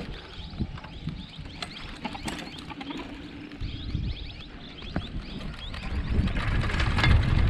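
Birds chirping, many short repeated calls, over scattered clicks and rattles. About six seconds in, a louder low rumble comes up.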